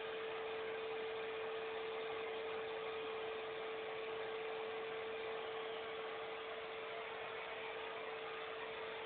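Alpino vacuum cleaner running steadily: an even rushing noise with a constant whine.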